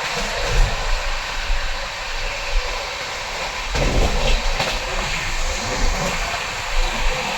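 Poorva Express passenger train running on the rails: a steady rumble and rail noise, with a few faint wheel clicks.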